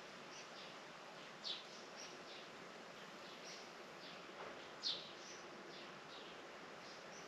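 Small birds giving short, high chirps every second or so, the loudest about a second and a half in and again near five seconds, over a steady faint outdoor hiss.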